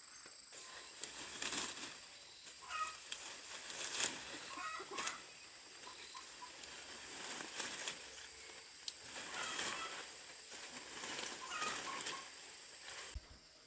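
Chickens clucking, with repeated short bursts of rustling and wing flapping.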